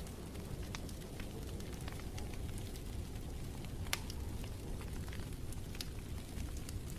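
Wood fire crackling in a fireplace: scattered sharp pops and snaps over a low steady rumble, with one louder pop about four seconds in.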